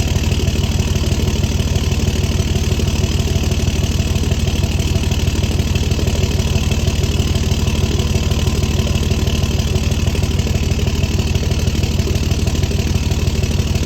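2005 5.9 Cummins inline-six turbodiesel idling steadily after a cold start, an even low rumble with fine rapid pulsing, through a 5-inch straight turbo-back exhaust.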